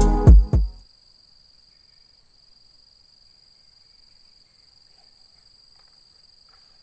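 Background music cutting off within the first second, then a steady, faint, high-pitched insect chorus.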